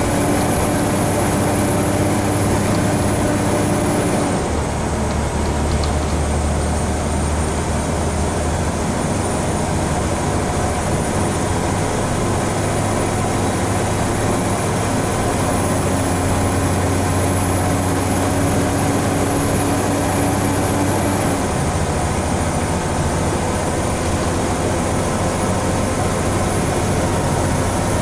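Interior sound of a Scania N94UB single-deck bus's diesel engine and ZF Ecomat automatic gearbox pulling under load. The engine note drops suddenly about four seconds in as the gearbox shifts up, climbs slowly as the bus gathers speed, then drops again with a second upshift near the end.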